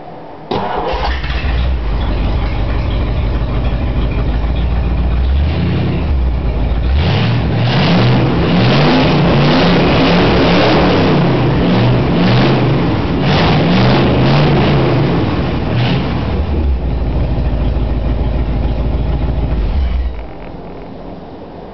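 1962 Ford Galaxie's big-block V8 with straight-piped exhaust firing up about half a second in and idling, then revved repeatedly with the pitch rising and falling, settling back to idle and shutting off near the end.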